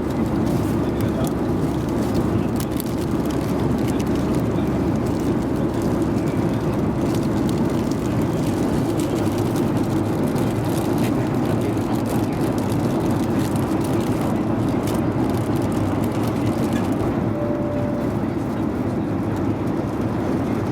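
Steady cabin noise of a Boeing 737-800 in flight: the even, low rush of the engines and the airflow around the fuselage, unchanging throughout.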